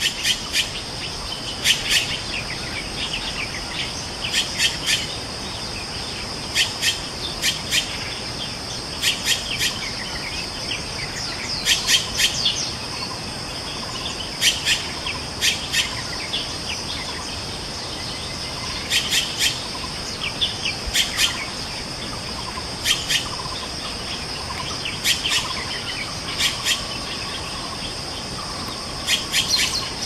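Bird calls: short, sharp high chirps in quick clusters every second or two, over a steady high insect drone.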